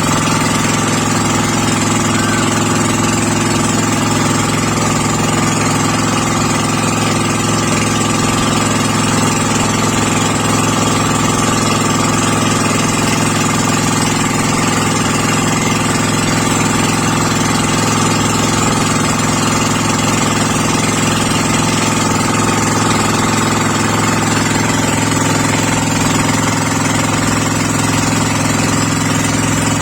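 Boat engine running steadily at a constant speed, its pitch unchanging throughout.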